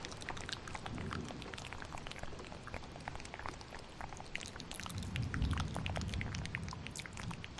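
Close-up wet mouth clicks and smacks, many small quick ones, layered over steady rain, with a low rumble of thunder swelling about a second in and more strongly around five seconds in.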